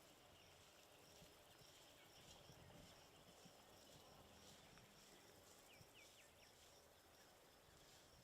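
Near silence: faint outdoor ambience with a few faint high chirps.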